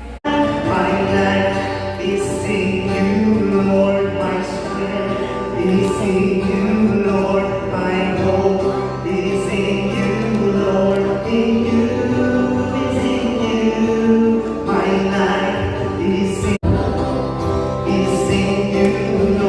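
Song with a group of voices singing together, in a choir or gospel style. It breaks off for an instant twice, just after the start and about three-quarters of the way through.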